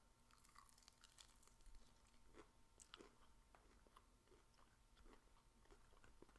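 Faint crunching and chewing of crispy fried chicken, a scatter of small crackles as the breaded coating is bitten and chewed.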